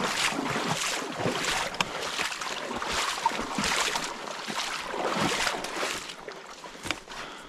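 Footsteps swishing and crunching through brush and leaf litter at a walking pace, with an occasional low knock. They fade near the end.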